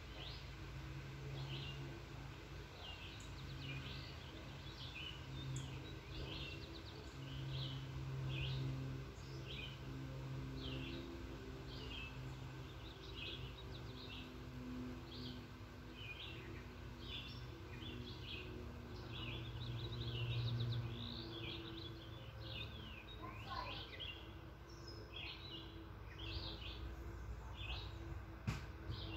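Birds chirping in quick succession, several short calls a second, over a low steady hum that swells and fades. A single sharp knock near the end.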